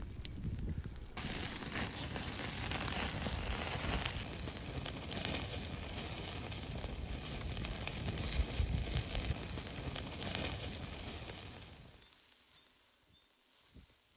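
Şiş kebab skewers sizzling and crackling over a charcoal mangal grill, a dense hiss that sets in about a second in and dies away near the end.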